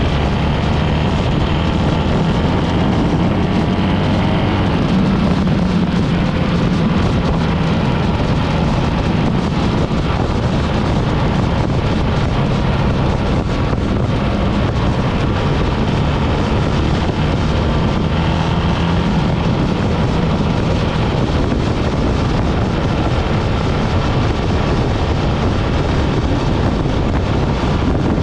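BMW R 1300 GS boxer-twin engine running steadily under way, with wind rushing over the microphone.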